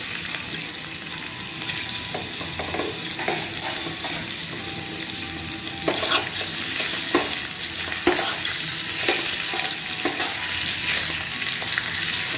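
Prawns sizzling as they fry in hot oil in a small pan. From about six seconds in a metal spoon stirs them, scraping and clicking against the pan, and the sizzle grows a little louder.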